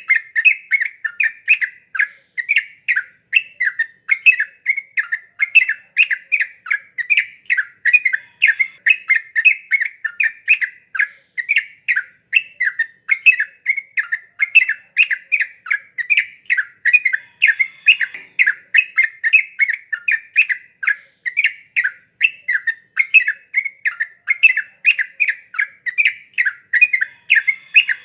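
Yellow-vented bulbul (trucuk) calling without pause, a fast run of short, bright chattering notes, about two to three a second.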